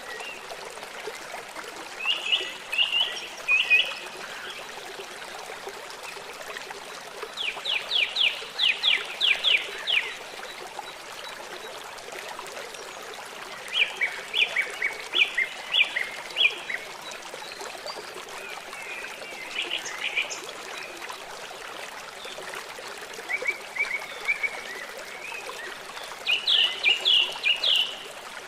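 A songbird singing short phrases of quick repeated notes, about every five seconds, over the steady rush of a stream.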